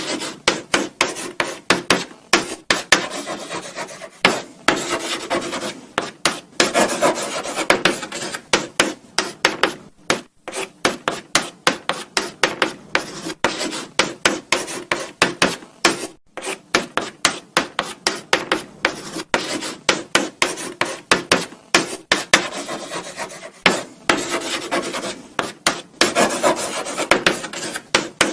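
Chalk writing on a blackboard: quick, irregular scratching strokes of chalk on the board, with a few longer continuous strokes and short pauses between bursts of writing.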